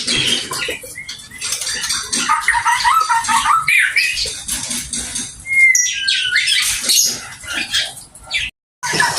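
White-rumped shama (murai batu) singing a fast, varied song of chirps, trills, whistles and harsh notes. The sound cuts out for a moment near the end.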